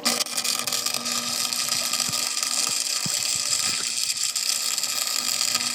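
Arc welding inside a rear differential to weld it locked: a continuous crackling sizzle that starts abruptly.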